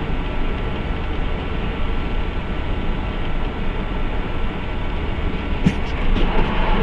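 Steady vehicle rumble of engine and road noise, with a few small knocks near the end.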